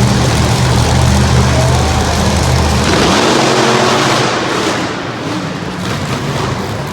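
Monster truck engines running loud in an arena, a low steady engine tone for about three seconds. The low tone then drops away and a broad rush of noise swells and fades.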